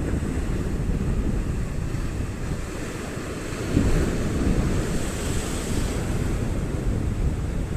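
Ocean surf washing against the shore, with heavy wind rumble on the microphone. A wave breaks and washes up about four seconds in, growing brighter for a couple of seconds.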